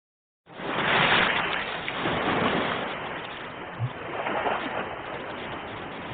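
Ocean surf: after a brief dead silence at a cut in the recording, a wave comes in abruptly about half a second in, breaks, then washes and ebbs in swells.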